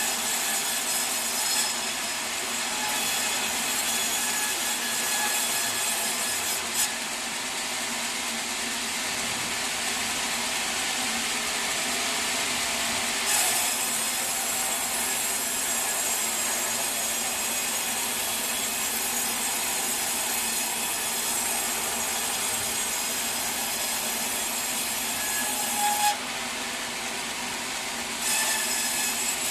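Sawmill saw cutting through a log: a steady sawing noise with a high whine that fades and returns several times.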